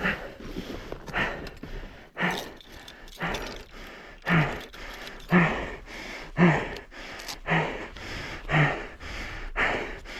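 A person breathing hard and heavily, with about one loud breath a second and a grunting voice on some of the exhales, as if winded from exertion.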